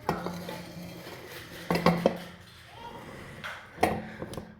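Jars and kitchen items being picked up and set down on a counter: a knock near the start, a quick run of three clinks and knocks about two seconds in, and another near the end, some followed by a short low ring.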